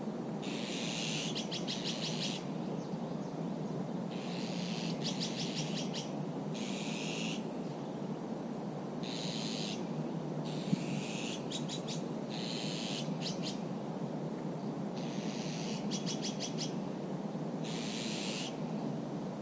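A songbird repeating a short phrase every few seconds: a harsh note followed by a quick run of clicks. Under it is a steady low rushing noise.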